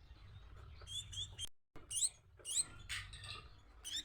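Baby Bengalese finch giving begging calls while being hand-fed: a run of short, high, rising squeaks, about half a dozen from about a second in.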